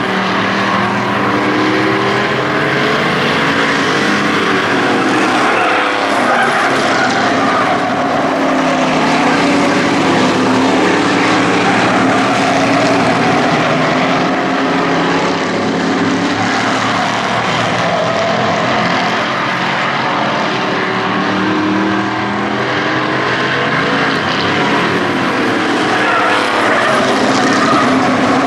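Engines of a pack of hobby-class race trucks running continuously on the oval track. Several engine notes overlap and rise and fall as the trucks accelerate and lift off through the corner.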